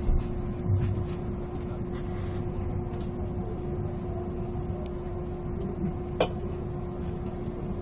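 Cabin noise inside an E657 series limited-express train car: a steady low rumble with a constant hum. There are a couple of knocks near the start and a single sharp click about six seconds in.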